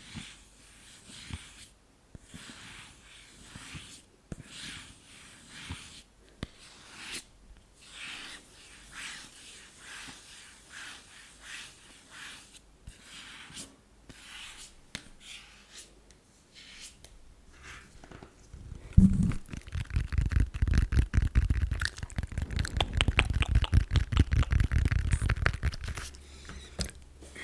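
Close-miked ASMR fingernail scratching: soft, separate scratches at first, then about two-thirds of the way in a fast, much louder run of rapid scratching strokes with a heavy low rumble, which stops shortly before the end.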